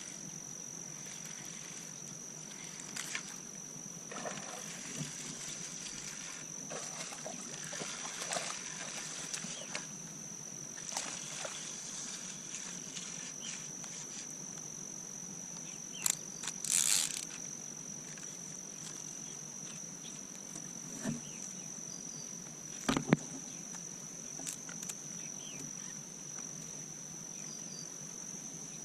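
Steady high-pitched drone of insects, crickets or similar, over a faint outdoor background, with a few scattered clicks and knocks, a cluster about 16 to 17 seconds in and the sharpest about 23 seconds in.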